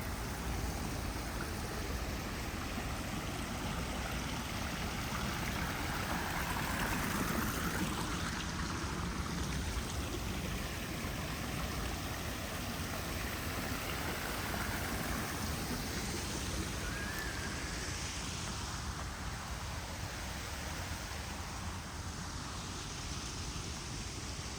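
Water of a small park river or stream running, a steady rushing that swells twice and eases off near the end.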